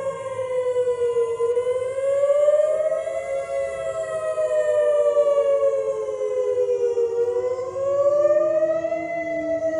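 Outdoor civil defense warning sirens wailing together: several steady tones slowly glide up and down over a few seconds and cross one another.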